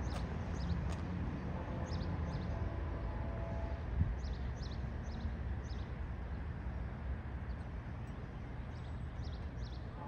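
GO Transit push-pull commuter train passing, a steady low rumble with scattered light clicking and a single thump about four seconds in.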